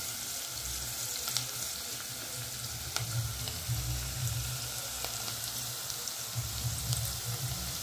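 Sliced onions, garlic and dried red chillies frying in hot oil in a stainless steel pot: a steady sizzle, with a few sharp clicks.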